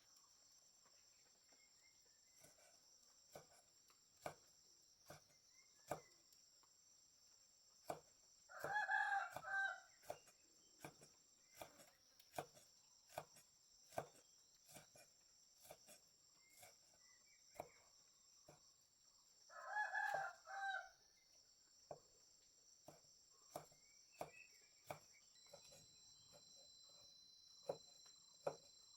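A rooster crowing twice, about eleven seconds apart, over a steady high-pitched insect drone and scattered sharp clicks.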